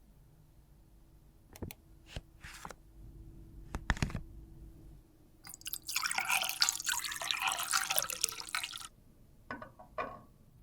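A few small clicks and taps from handling makeup materials, then about three seconds of dense crackling, liquid-like noise, like something being poured, dripped or stirred, followed by two more light taps.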